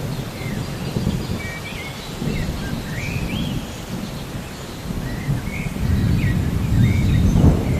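Low, rolling thunder rumbling under steady rain, swelling near the end, with birds chirping in short, repeated calls over it.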